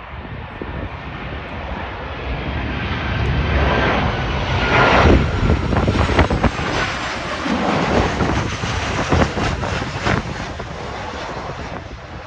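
Jet engines of a Boeing 737-800 passing close by, growing louder to a peak about five seconds in, with a whining tone that drops in pitch, then easing off.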